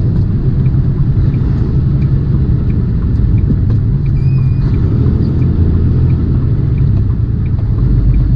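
Semi-truck's diesel engine and road noise heard inside the cab while driving: a steady low rumble, with faint, regular ticking about twice a second.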